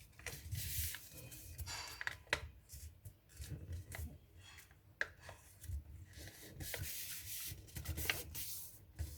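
A sheet of paper being handled, folded and creased by hand: repeated rustling and rubbing strokes with a few sharp crinkles.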